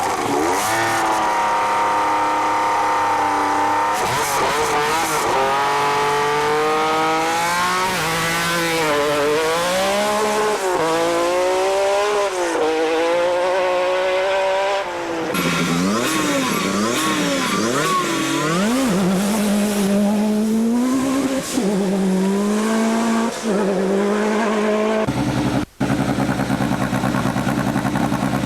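Group B rally car engines revving hard at speed, pitch climbing and dropping again and again through gear changes and lifts. The sound changes abruptly several times as one car gives way to another.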